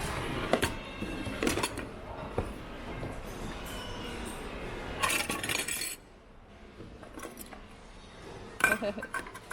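Glass and other hard household items clinking and knocking together as a thrift bin is rummaged through by hand. The knocks are scattered at first, with a denser clatter about five seconds in and another short burst near the end.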